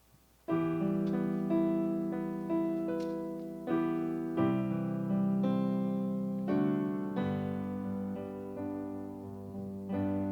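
Piano playing a gentle run of chords and melody notes, each struck and left to ring and fade, starting about half a second in: the introduction to a worship song.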